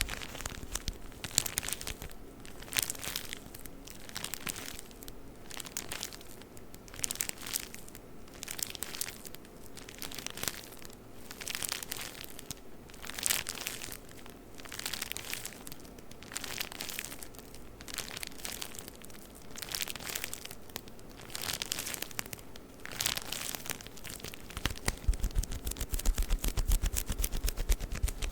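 Tissue paper around a package crinkling in repeated bursts as it is handled, about one rustle a second. In the last few seconds the handling gets louder and busier, with some dull low knocks.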